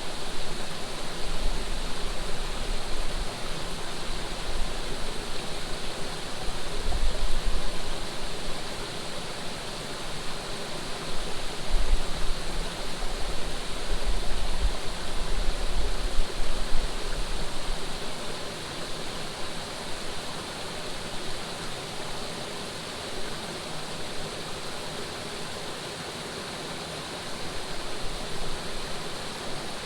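Steady rush of flowing water. Gusts of wind buffet the microphone with low rumbles through the first half and again near the end.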